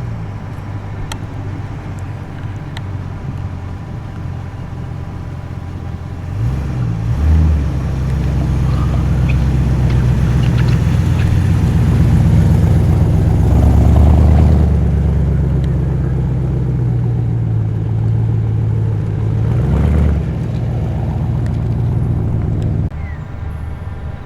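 Muscle car engines rumbling as the cars roll in at low speed. About six seconds in, a louder engine comes close and stays close for most of the rest, with a brief rev about a second later, another near the end, and loudest in the middle, before it drops back.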